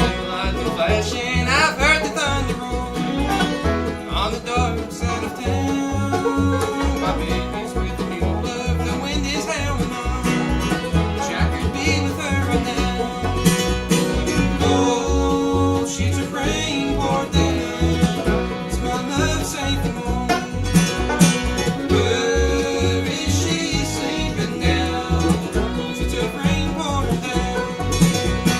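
Bluegrass band playing: banjo and guitar picking over a steady beat.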